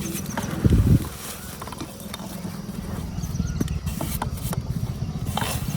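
Dry red dirt crumbling and dropping into wet paste in a steel tub: scattered crackles and small impacts, with one heavier thud about a second in, over a steady low rattling rumble.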